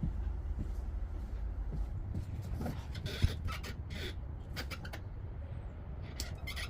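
Scattered small clicks, scrapes and one sharp knock of hand tools and metal parts being handled while working on a pit bike engine, over a steady low rumble.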